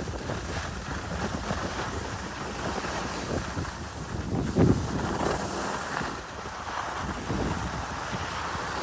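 Wind buffeting the microphone and a steady hiss and scrape of sliding over snow while riding downhill, with a few brief louder swells.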